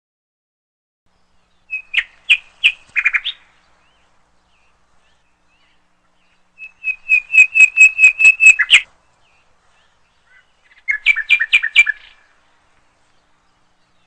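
A bird chirping in three quick runs of repeated notes, each run one to two seconds long, with pauses between them.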